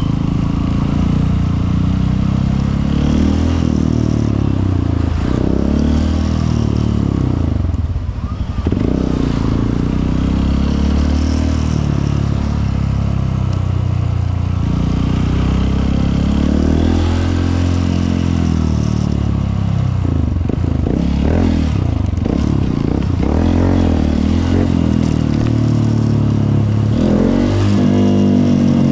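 Honda CRF150L's single-cylinder four-stroke engine running under way, its pitch rising and falling several times as the rider accelerates and eases off through the gears.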